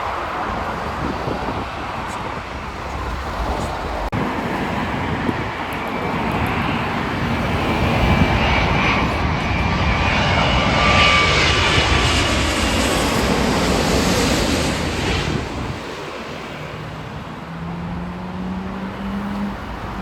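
Jet airliner passing: a broad engine rumble with a faint whine builds to its loudest about eleven seconds in, then falls away at about sixteen seconds. A low steady hum follows near the end.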